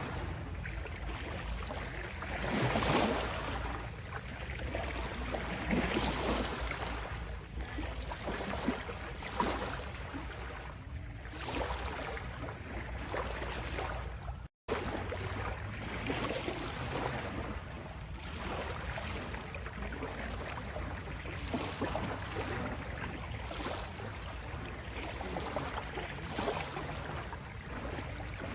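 Small waves lapping and washing on a shore, swelling and easing every couple of seconds. The sound cuts out for an instant about halfway through.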